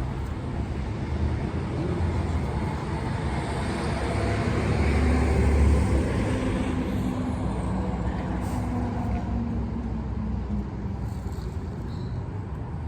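A motor vehicle passing by: its engine and tyre noise grows louder to a peak about halfway through, then fades.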